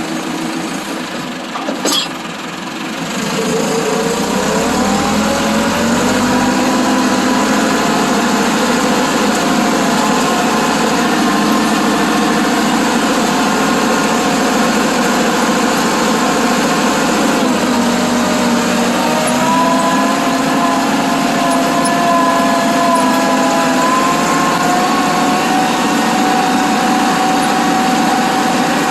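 Massey Ferguson 385 tractor's diesel engine running, revving up a few seconds in and holding at higher speed, easing off briefly about two-thirds through before picking up again. A single sharp click near the start.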